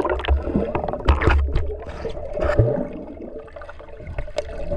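Pool water splashing and gurgling as a child jumps into a hot spring and goes under, with irregular sloshes and a low rumble.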